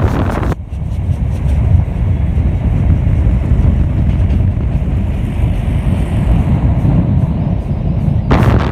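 Steady low vehicle rumble, muffled with little high end, breaking in suddenly about half a second in and giving way to a brighter, gusty sound near the end.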